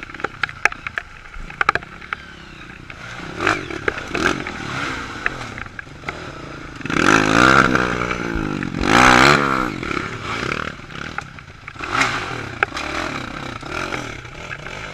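Dirt bike engine revving, with two strong bursts about halfway through whose pitch swings up and down, among scattered clattering and scraping knocks.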